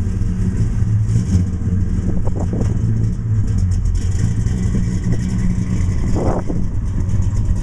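1969 Dodge Charger R/T's bored-over 440 big-block V8 with a street/strip cam, running steadily and heard from behind at its dual exhaust as the car rolls slowly away.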